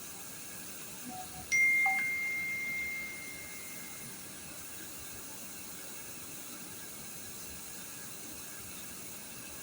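A single clear electronic-sounding ding about one and a half seconds in, ringing out and fading over about two seconds, over a steady background hiss.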